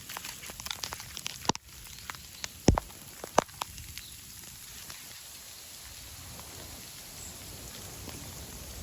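Falling snow pattering on surfaces: a scatter of sharp ticks in the first few seconds, then a steady hiss.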